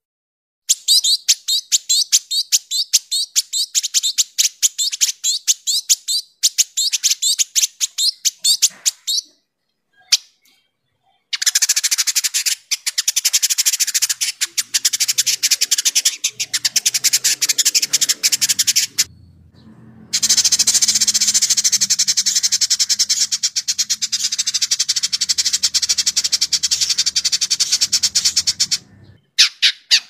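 Village indigobird singing a sharp, tightly packed chatter of rapid high notes, in three long runs separated by short pauses.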